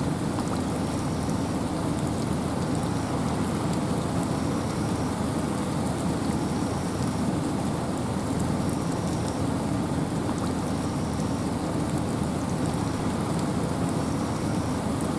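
Steady wind and rain in a forest: an even hiss with a heavy low rumble. A faint, short high tone repeats about every two seconds.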